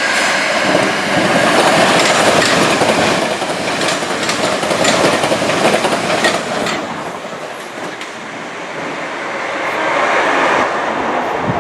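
A passenger train running past on the main line, its wheels clattering over the rail joints in a run of sharp clicks. The sound eases off about two-thirds of the way through, then builds again toward the end.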